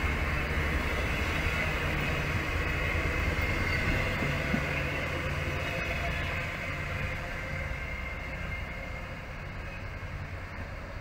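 Queensland Rail electric passenger train running past along the platform: a steady rumble with a high whine, fading over the last few seconds as the last carriage goes by and the train moves away.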